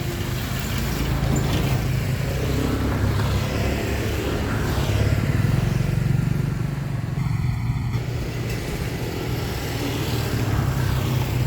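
Road traffic: motor vehicle engines running, a steady low rumble.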